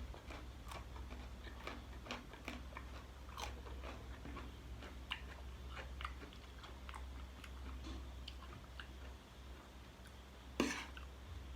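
A person chewing and biting into spicy chicken-feet salad: a run of small, irregular wet clicks and crunches, with a louder sharp one near the end.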